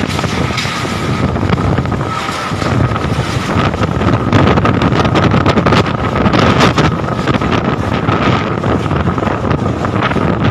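Strong gusting wind buffeting the microphone, with a steady thin whistling tone running through it.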